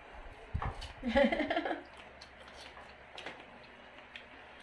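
A brief human vocal sound about a second in, then faint scattered small clicks and rustles, as of boiled peanut shells being cracked open during eating.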